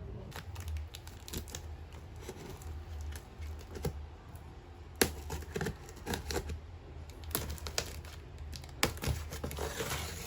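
Irregular light clicks and short rustles, like small objects or packaging being handled, over a steady low hum.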